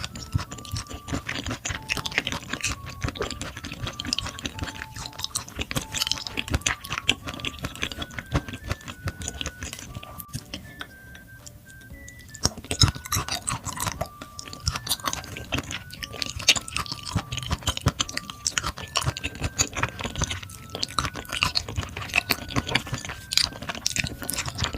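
Close-up chewing and mouth sounds of someone eating raw beef brisket, with a short lull about ten seconds in. A simple background melody of single held notes plays underneath.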